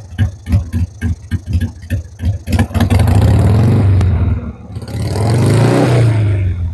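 Motorcycle engine idling with an uneven beat of about four thumps a second, still a little cold, then revved twice, each rev rising and falling in pitch over a second or so.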